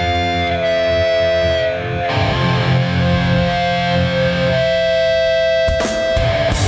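Live hardcore band with distorted electric guitars holding long ringing notes over the low end. There are a couple of sharp hits near the end.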